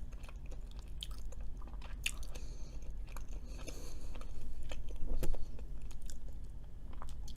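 Close-miked chewing and biting of Cajun fries, with small crunches and wet mouth clicks.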